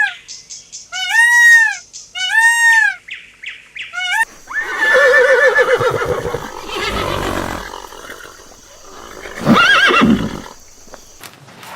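Horse neighing: a long, shaky whinny that falls in pitch about four seconds in, breathy noise after it, and a shorter call about ten seconds in. Before it come three short, high, rise-and-fall calls from another animal, about a second apart.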